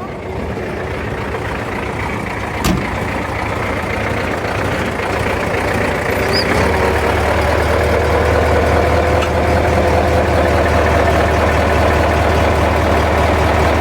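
V8 engine running just after starting, its level climbing slowly, with one sharp click a few seconds in. About six seconds in the engine note settles into a steadier, stronger hum.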